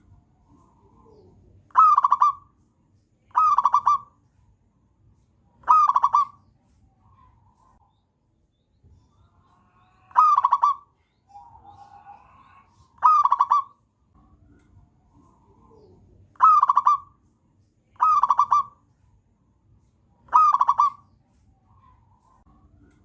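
Zebra dove (perkutut) song: eight loud, short cooing phrases, each under a second, repeated every two to three seconds, with softer, quieter notes between them.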